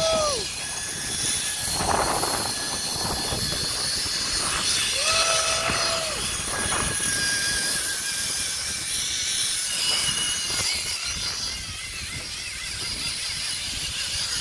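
Zipline trolley running along the steel cable: a steady rolling whir with rushing noise. Two short held tones rise and fall, one at the start and one about five seconds in.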